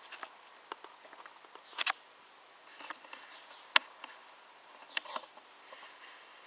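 Faint scattered clicks and light taps of a diecast model car being handled, with sharper clicks about two, four and five seconds in.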